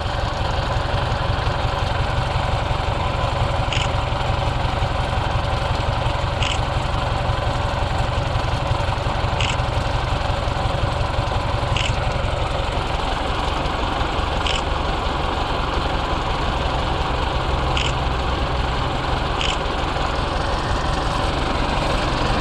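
UTB U650 tractor's diesel engine running steadily. Seven short, sharp ticks sound over it at intervals of about two to three seconds.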